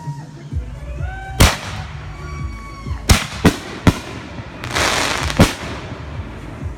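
Backyard consumer fireworks going off: a sharp bang, then three quick bangs about three seconds in, then a crackling hiss ending in one more bang.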